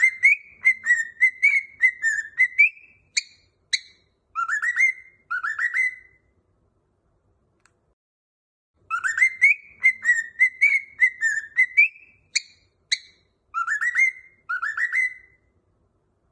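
Cockatiel whistling a short tune, the same phrase twice with a pause of a couple of seconds between: a run of quick notes, then a few upward-swooping whistles.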